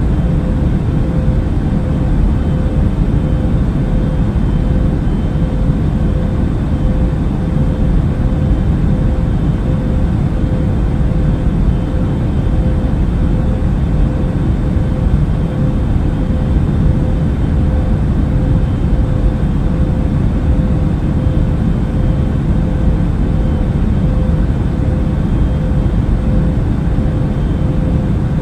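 Airliner cabin noise in flight: a deep, even rumble of engines and rushing air, with a steady hum tone running through it.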